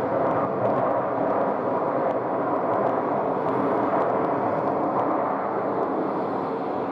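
A WestJet Boeing 737 MAX 8's CFM LEAP-1B turbofan engines running, a steady jet noise with a faint tone in it.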